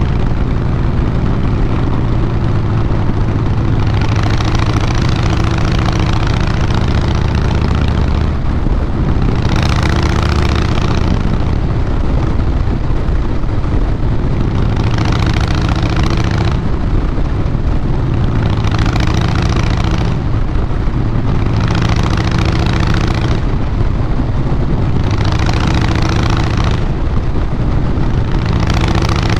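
A 2012 Harley-Davidson Fat Boy Lo's Twin Cam 96B V-twin running through a Vance & Hines Big Radius 2-into-2 exhaust, a steady low rumble. Patches of hiss come and go every few seconds.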